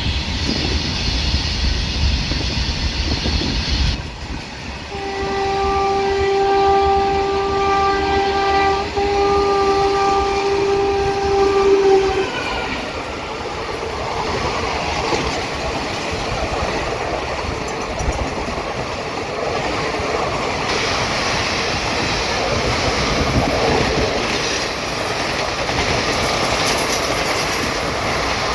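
WAP-4 electric locomotive horn sounding one long steady note for about seven seconds, with a brief break partway. It is followed by the continuous running noise of the train passing.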